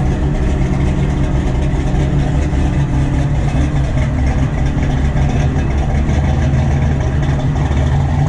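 A car engine idling steadily at an even, unchanging speed, with a low note and no revving.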